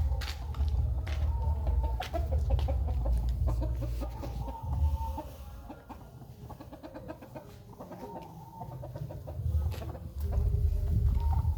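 Caged zebra doves (perkutut) cooing, their calls repeated with rapid pulsing notes, over a low rumble. The birds are singing again after being warmed in the sun.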